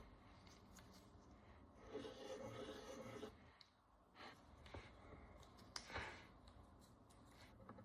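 Faint scraping and scratching of a hand tool working the encrusted surface of a Roman bronze coin, with a longer scrape about two seconds in, then shorter scratches and a couple of sharp ticks around six seconds in.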